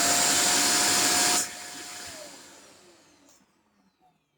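Vacuum cleaner running at full power, then switched off about a second and a half in, its motor whine falling as it spins down to a stop.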